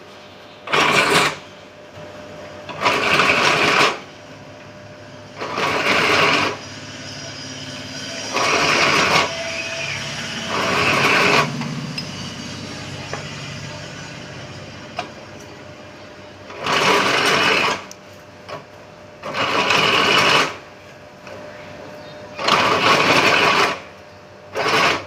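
Workshop power tool run in about nine short, noisy bursts of roughly a second each, at irregular gaps, over a lower steady machine hum.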